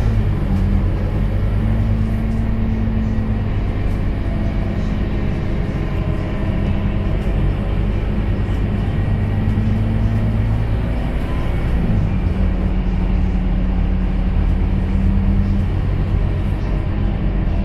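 Scania K230UB city bus's five-cylinder diesel engine running steadily under way, heard from inside the passenger cabin over road rumble; the engine note dips and changes pitch about twelve seconds in, then holds steady again.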